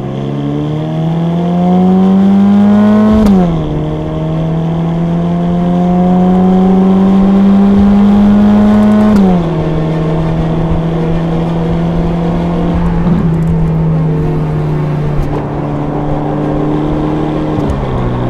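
Ferrari Roma's twin-turbo V8 accelerating: the engine note climbs, drops sharply at an upshift about three seconds in, climbs again through the next gear and drops at another upshift about nine seconds in, then runs at steady lower revs, stepping down slightly near the end.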